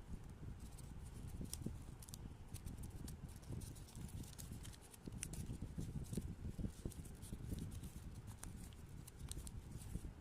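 Hands handling and folding paper: irregular rustles, crisp clicks and soft taps against a surface.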